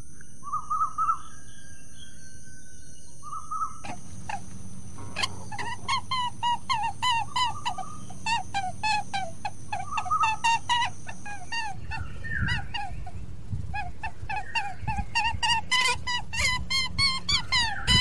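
Birds chirping: a few short calls at first, then a dense run of quick, repeated chirps from about four seconds in. A steady high tone sounds beneath them until about twelve seconds in, and low thumps come in after it stops.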